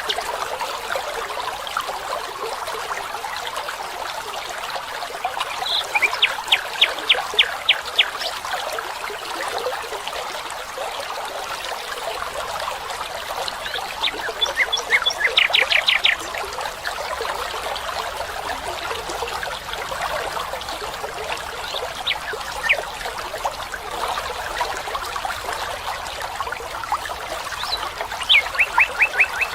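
Steady trickling and running water of a forest stream, with a songbird cutting in three times with a quick trill of rapidly repeated notes: about six seconds in, near the middle, and near the end.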